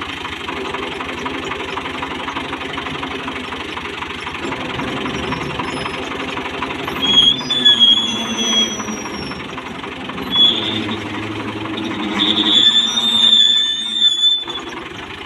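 Tractor engine running under load with a fast, steady knocking beat. High-pitched squeals come twice, about seven seconds in and again near the end.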